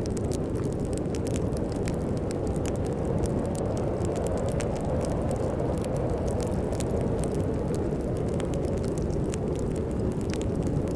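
Fireplace fire crackling with frequent small, sharp crackles over a steady low rush of storm wind.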